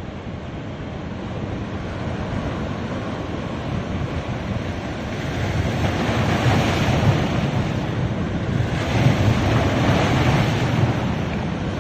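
Sea waves washing onto a beach: a continuous rush of surf that swells louder twice, about six and nine seconds in.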